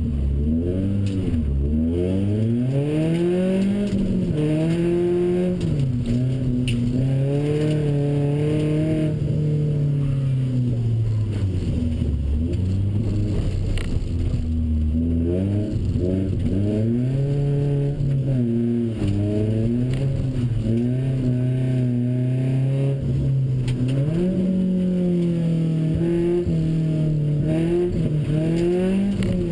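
BMW 318ti's four-cylinder engine heard from inside the cabin under hard driving. The revs climb repeatedly and drop sharply at each gear change, easing off lower at times between bursts of acceleration.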